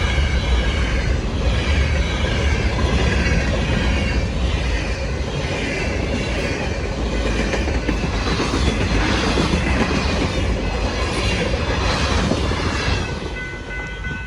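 Canadian Pacific train passing close by: a steady rumble of railcars and wheels running on the rails, dying away near the end.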